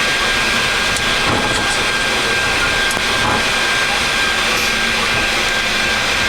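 Steady flight-deck noise of a Boeing 737 MAX on the ground after landing, with its engines running at idle: an even hiss with a thin, steady high tone and a few faint ticks.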